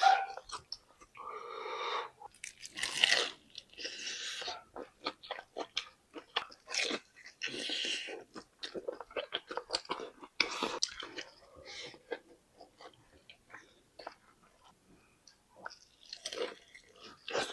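Close-up crunching and chewing of crispy fan-cut fried chicken (ayam goreng kipas): louder crunchy bites every second or two among quick crackles of chewing. It eases into quieter chewing for a few seconds, then crunches again near the end.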